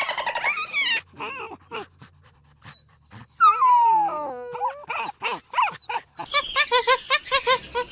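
A dog whining and whimpering, with high falling whines around the middle and quick short calls near the end.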